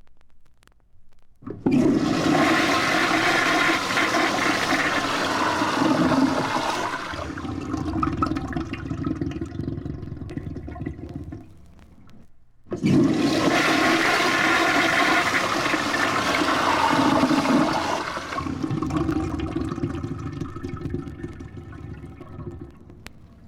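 Two loud rushes of water, each starting suddenly, running strongly for about five seconds and then tapering off.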